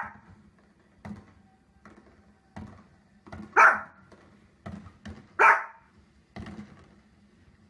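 A small fluffy dog barking sharply, with two loud barks about three and a half and five and a half seconds in. Between them come fainter short thumps from fireworks playing on a television.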